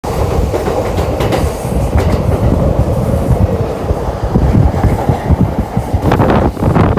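Doctor Yellow Shinkansen inspection train running past at speed: a loud, steady rumble and rush of wheels and air, with a few sharp clicks early on and a swell of rushing noise near the end.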